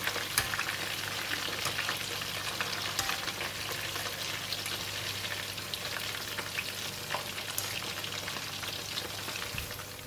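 Breadcrumb-coated chicken pieces deep-frying in very hot oil: a steady, dense sizzle full of small crackles, which drops away at the very end.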